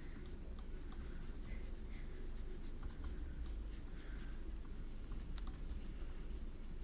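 Soft swishes of a paintbrush laying a watercolour wash over paper, with a few faint ticks, over a low steady hum.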